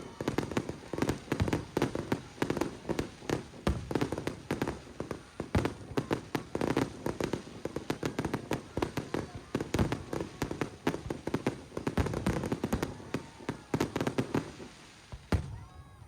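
Fireworks display in a rapid barrage: dense overlapping bangs and crackles of bursting aerial shells, with one sharp loud bang near the end before the barrage dies away.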